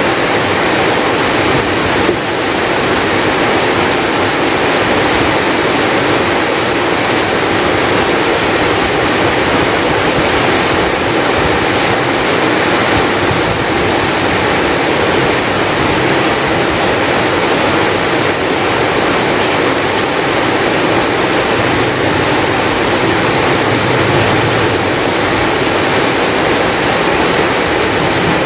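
Heavy rain pouring down steadily on a forest clearing and hut, a dense, even hiss of falling water, with one brief knock about two seconds in.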